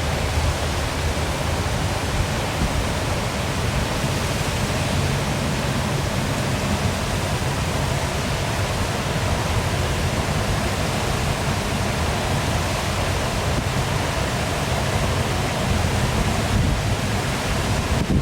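Waterfall pouring steadily, an even rushing of falling water with a fluctuating low rumble underneath.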